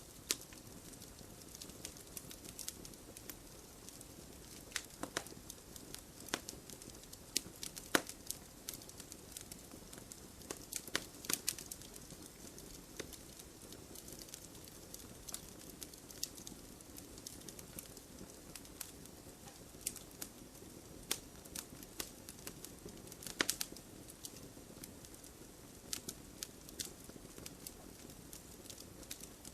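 Wood fire in a fireplace crackling, with irregular sharp pops over a steady low hiss of burning. The loudest pops come about a third of the way in and again past the three-quarter mark.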